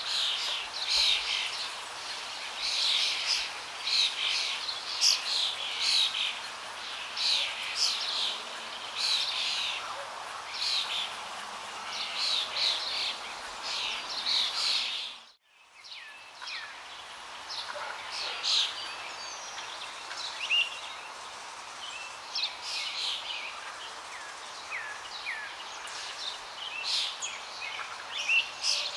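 Small birds chirping: many short, high chirps in quick succession over a steady background hiss. The sound drops out for a moment about halfway through, then returns with fewer, sparser chirps.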